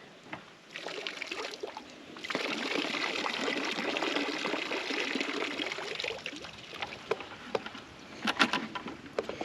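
Water being poured out of a container of freshly caught shrimp. It starts as a trickle, becomes a steady pour for a few seconds, then thins out, with a couple of light knocks near the end.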